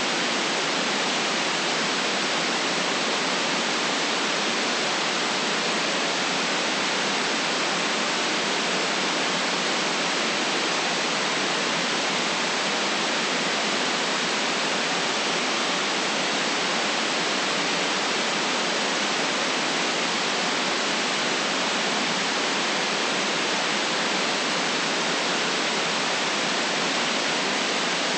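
Steady white noise: an even, unchanging hiss with no deep rumble.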